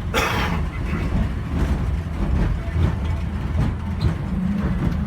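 Running noise of an airport inter-terminal people-mover train, heard from inside the car: a steady low rumble with rattling as it travels. There is a short hiss just after the start, and a steady motor hum comes in near the end.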